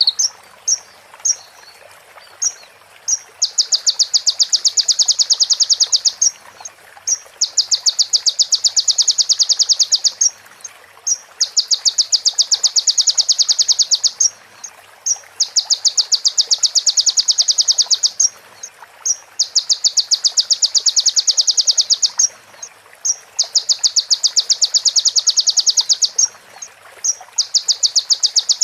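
A small songbird's rapid, high-pitched ticking trill, in bursts of about two to three seconds repeated every four seconds or so. This is the female prenjak (bar-winged prinia) call used as a model phrase for konin sunbirds.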